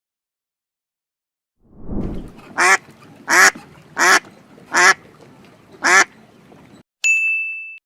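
A duck quacking five times in a steady series, after a short low rumble. A bright chime rings near the end.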